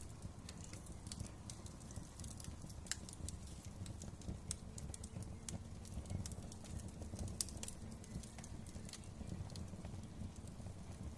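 Wood fire crackling in a fireplace: irregular sharp pops and snaps over a low, steady rumble, with a few louder pops, the loudest about seven seconds in.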